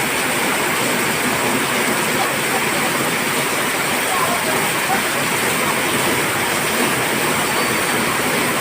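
Heavy rain falling, a steady, unbroken hiss of downpour.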